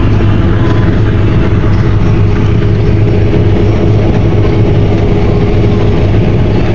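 Combine harvester running steadily while cutting wheat: a loud, even drone with a strong low hum.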